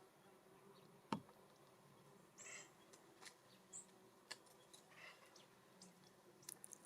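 Faint sounds of small birds at a seed and suet feeder: one sharp tap about a second in, then scattered light ticks and a few soft high chirps over a low steady hum.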